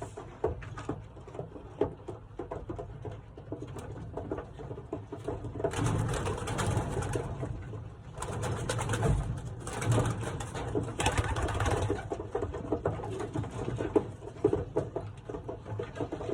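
Young racing pigeons cooing in the loft, with several noisy bursts of scuffling and flapping and many small knocks as birds are handled.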